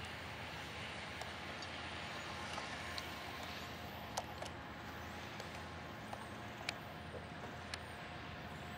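Diesel freight locomotives and their train running at a distance: a faint, steady rumble and hiss, with a few sharp clicks scattered through.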